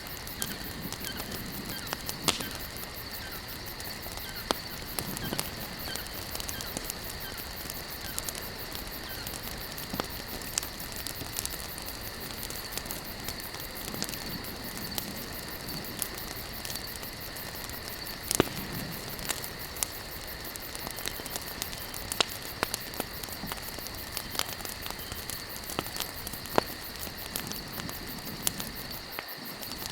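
Campfire of burning logs crackling, with irregular sharp pops over a steady hiss.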